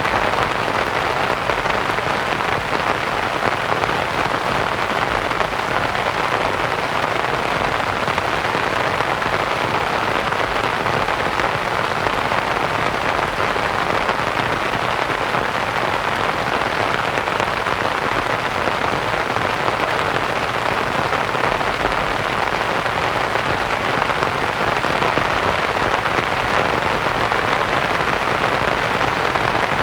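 Steady rain pattering on a canvas tent, blended with a soft, even white-noise hiss.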